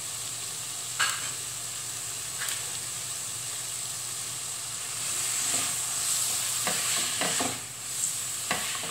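Chicken pieces, chopped tomato and spices sizzling in a non-stick wok, with a spatula clicking and scraping against the pan; the stirring picks up in the second half.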